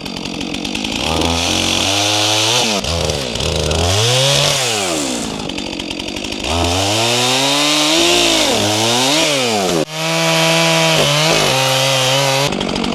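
Stihl MS400C two-stroke chainsaw cutting tree stumps, its engine pitch dropping under load and climbing again several times. About ten seconds in it briefly drops away, then runs on at a steadier pitch.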